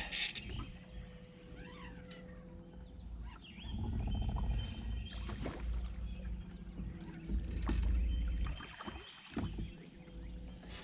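Sounds on a small fishing boat in river current: a low rumble of water and wind that swells twice, a faint steady hum, and a few small clicks and high chirps.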